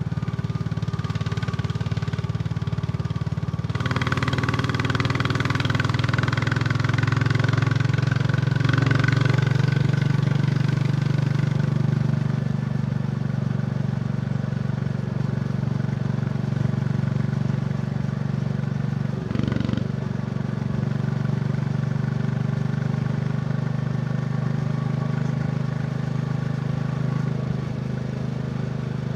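Royal Enfield Bullet 350's single-cylinder engine and exhaust running steadily while riding. It grows louder from about four seconds in for several seconds, then settles back. A brief sharp noise cuts across it about two-thirds of the way through.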